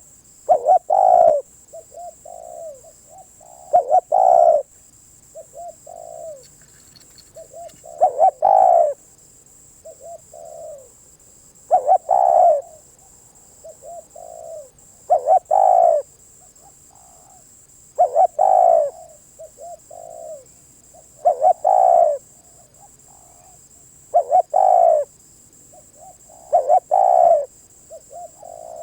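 Spotted dove singing its cooing song: a few soft short coos, then a loud double coo, repeated over and over about every three seconds.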